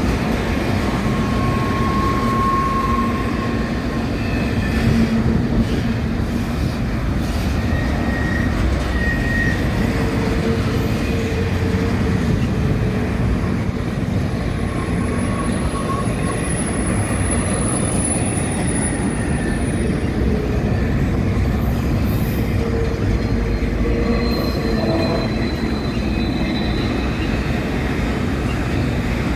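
Double-stack intermodal container train rolling past: a steady rumble of well-car wheels on the rails, with short, high wheel squeals now and then and one longer high squeal about midway.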